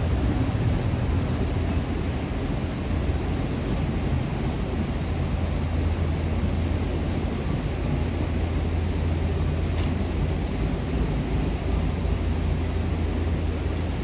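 Steady low rumble of a moving vehicle, with an even rushing noise over it.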